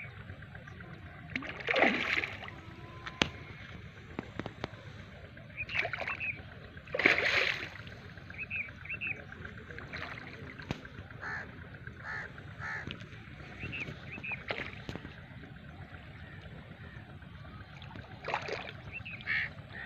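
Birds calling on and off: a few loud, short, harsh calls and repeated small paired chirps.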